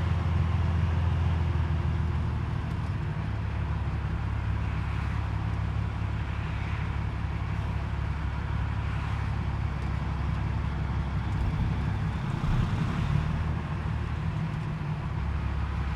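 Peterbilt 379's Cat C-15 inline-six diesel running at low speed, a steady low drone; its pitch drops about three seconds in and shifts again near the end.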